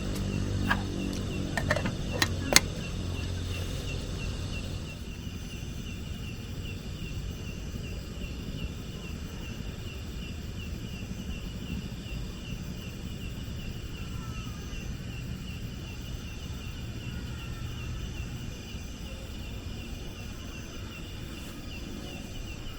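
Forest ambience with a steady low wind rumble and a high, rapidly pulsing trill that keeps on without a break. A few sharp clicks come in the first three seconds.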